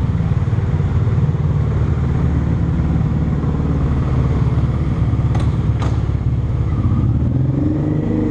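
Motorcycle engine running steadily under way, heard from the bike itself, with two sharp clicks about half a second apart a little past the middle.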